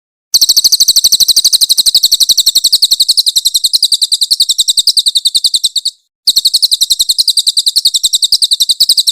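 Crested jay (cililin) calling loudly: a long, rapid run of high, harsh notes at about a dozen a second. It breaks off about six seconds in and starts again at once.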